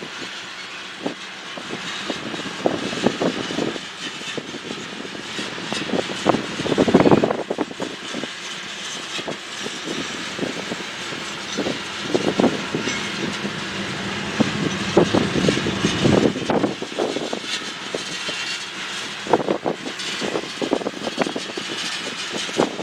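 A train rolling past, its wheels knocking irregularly over the rails above a steady rumble, loudest about seven seconds in.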